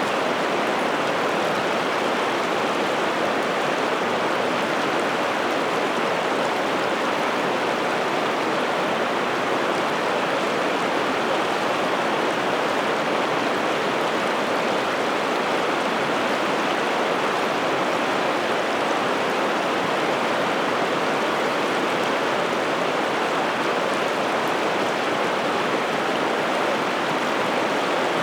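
The Piteälven river's water rushing steadily, an even, unbroken noise.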